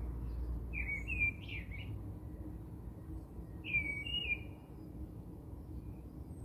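Birds chirping in the background: short gliding calls in two groups, about a second in and again near the four-second mark, over a low steady hum.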